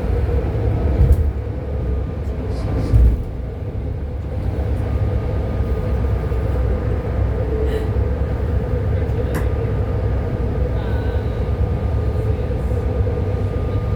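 BART train car running at speed, heard from inside the car: a steady heavy rumble with a constant whine over it. Two louder jolts come about one and three seconds in, and a sharp click later.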